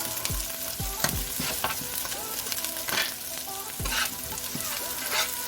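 Onions, habanero pepper, garlic and ginger sizzling as they fry, with a spoon knocking and scraping against the pan every second or so as they are stirred.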